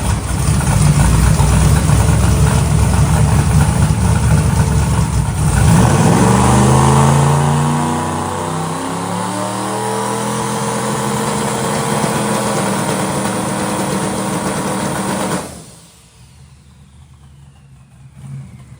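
Twin-turbo V8 of a NASCAR truck run hard against the transmission brake to build boost. It is loud and rough for about five seconds, then settles into a steady note that holds before cutting off sharply about fifteen seconds in as the throttle is released. This is the turbos holding about 10 pounds of boost flat.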